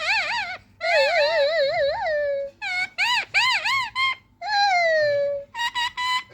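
Pet parrot giving a string of whistled calls with short breaks between, some held and slowly falling in pitch, others wavering quickly up and down.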